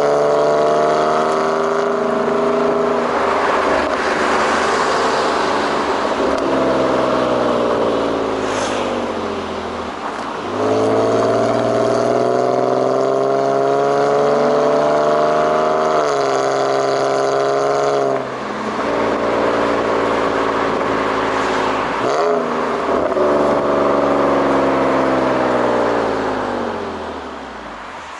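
BMW E46's exhaust note. The engine's pitch sinks slowly over several seconds at a time and jumps back up a few times, then fades out near the end.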